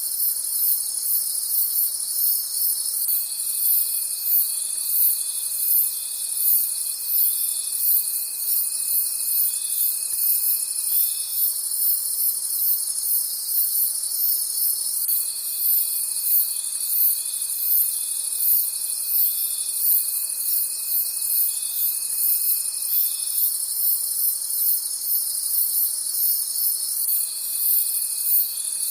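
Night chorus of crickets: dense, very high, fast chirping over a steady trill. A lower steady trill comes and goes, sounding for about eight seconds at a time with short breaks between.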